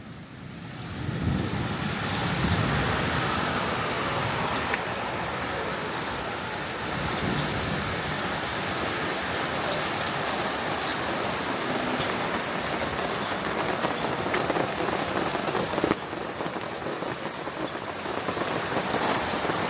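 Steady rain falling, with the odd sharper drop ticking through it, building up about a second in.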